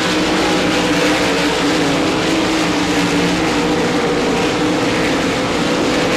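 RaceSaver sprint cars' 305 small-block V8 engines running at racing speed, a loud steady drone whose pitch wavers slightly as the cars lap.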